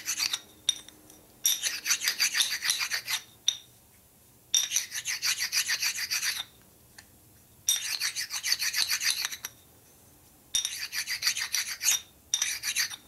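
Fine abrasive stone rubbed quickly back and forth over a flat metal surface of a Panhead rocker-arm part, in several bursts of rapid strokes with short pauses between. It is being worked to find and dress down a high spot or burr that makes the rocker arm bind.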